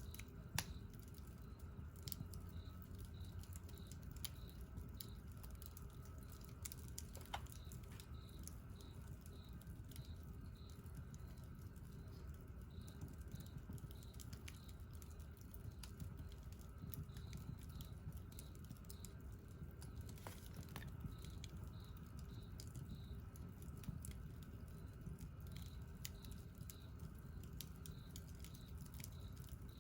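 Wood campfire crackling, with scattered sharp pops and snaps over a low steady rush of the flames. A faint series of high chirps repeats about twice a second through most of it.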